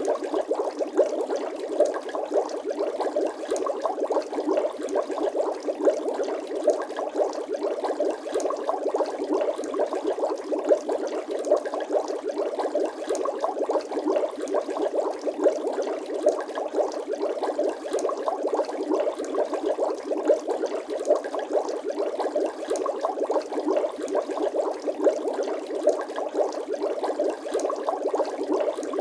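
Continuous dense bubbling of liquid: many small bubbles popping in a steady, unbroken stream, like water bubbling or gently boiling.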